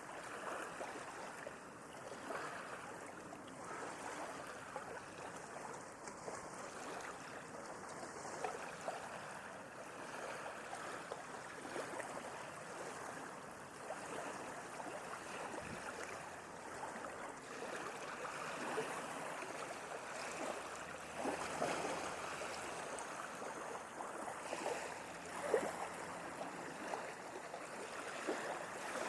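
Gentle sea waves lapping: a steady wash of moving water with many small splashes, and a somewhat louder splash about three quarters of the way through.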